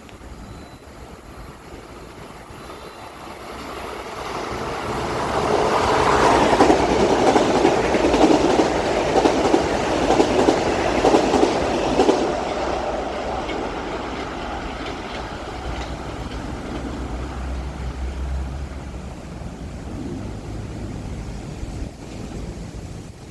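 Metro-North electric commuter train going by, its wheels clattering over the rail joints. It builds up about four seconds in, is loudest for several seconds, then slowly fades away.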